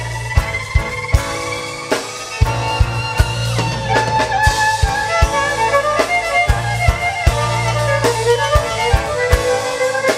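Instrumental passage of a live band: a drum kit keeps a steady beat with bass drum and snare under held, gliding melody lines.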